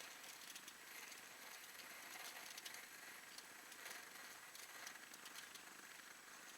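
Small category 1 firework fountain burning: a faint, steady hiss of spraying sparks with light crackles.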